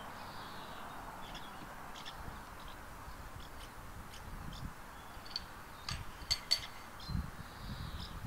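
Small birds chirping in short, sharp calls, several in quick succession about six seconds in, over low gusts of wind rumbling on the microphone.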